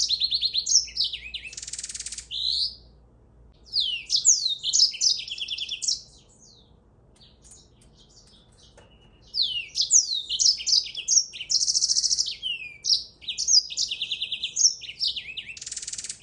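A songbird singing long, fast, varied phrases of chirps, sweeping whistles, rapid trills and buzzy notes, falling silent for about three seconds midway before starting again.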